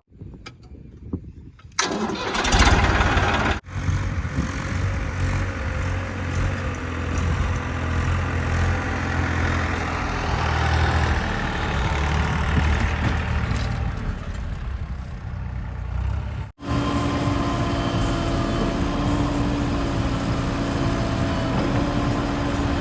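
Heavy diesel machinery engines running. One comes in suddenly about two seconds in, like an engine starting, and the rest is a steady low rumble broken by abrupt cuts between clips.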